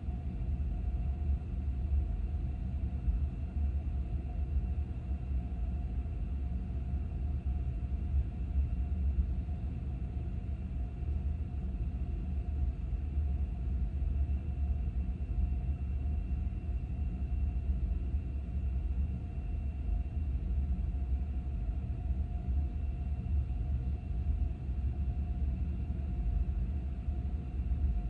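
Steady low rumble of a car driving: engine and road noise, with faint steady hum tones above it.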